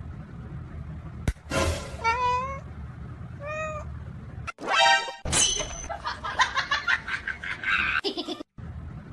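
Domestic cat meowing several times in short calls, one louder call about five seconds in, over background music.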